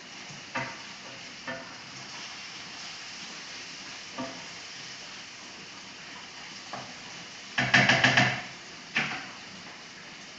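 Food sizzling steadily in frying pans on a gas hob, with occasional knocks of a metal cooking utensil against a pan and a quick burst of clattering about eight seconds in.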